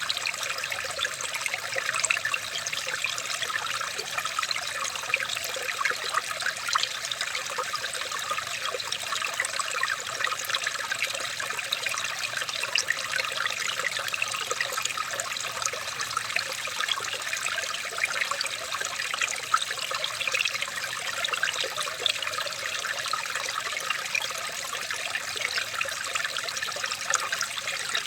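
Running water trickling steadily, a continuous even wash dotted with many small splashes.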